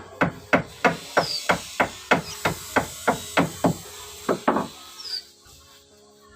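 Hammering: a steady run of sharp blows, about three a second, that stops about five seconds in.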